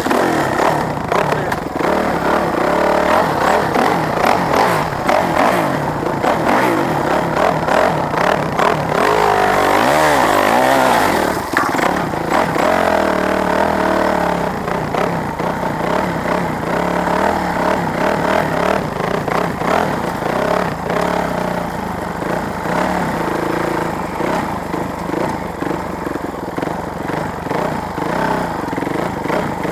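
Motorcycle engine running loud, revving with its pitch rising and falling sharply about ten seconds in, then running on with smaller swings in pitch.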